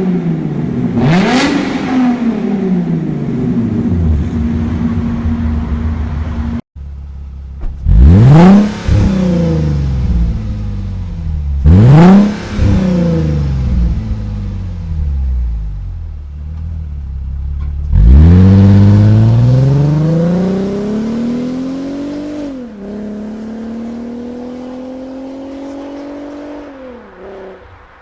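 Mercedes-Benz V6 engines being revved: one rev rises and falls away about a second in. After a sudden cut comes a second engine with two sharp throttle blips and then a longer rev that slowly falls. That gives way to a steady, slowly rising note that fades near the end.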